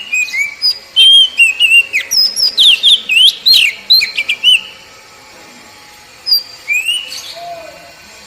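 Oriental magpie-robin (kacer) song: a fast run of loud, varied whistled notes and slurred chirps, a pause, then a shorter phrase near the end. It is a recorded song played to coax caged wild-caught kacer into singing.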